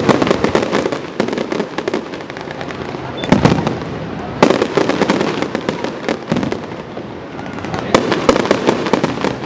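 Fireworks going off: aerial shells bursting with sharp bangs at the start, about three and four and a half seconds in, and again near the end, each followed by a run of crackling.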